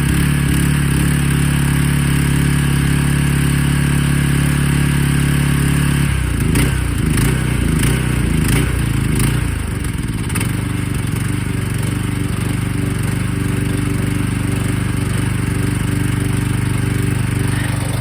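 Single-cylinder Predator engine on a Honda HS622 tracked snowblower running just after a cold start on last season's gas. About six seconds in, its speed changes and it runs unevenly with several sharp clicks for a few seconds, then it settles into a steady, slightly lower run.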